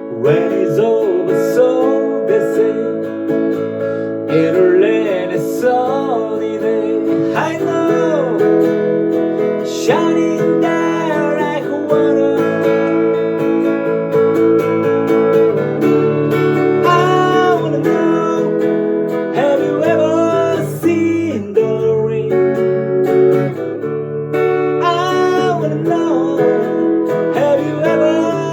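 Band music: strummed acoustic guitar chords under a lead melody line of sliding, bending notes.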